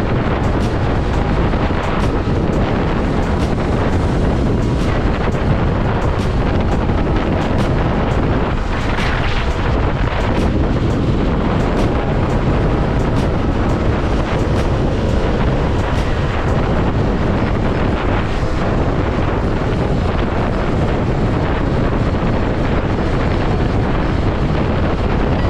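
Wind rushing over the microphone of a moving motorcycle: loud, steady and even, with no clear engine note standing out.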